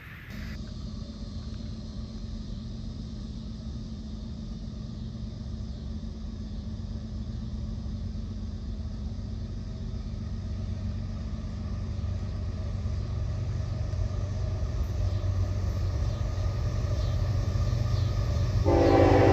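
Train approaching out of sight, a low diesel-locomotive rumble growing steadily louder. Near the end the locomotive's air horn starts to blow, several notes sounding together as a chord.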